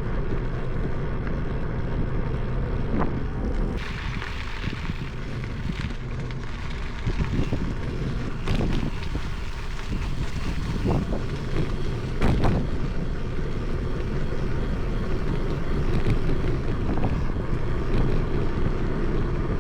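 Wind buffeting the microphone of a camera on a moving bicycle: a steady low rumble, with a few brief knocks from the ride.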